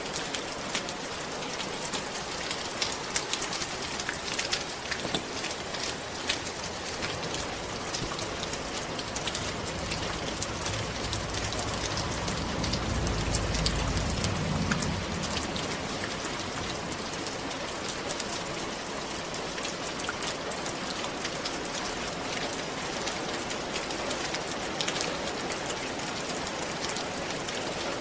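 Steady rain falling on a roof, a dense hiss with many individual drop ticks. A low rumble swells and fades about halfway through.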